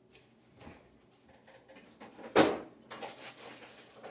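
Kitchen handling sounds: a faint knock, then a sharp thump about two and a half seconds in, followed by a short rustling or sliding noise, like something being taken out and set down.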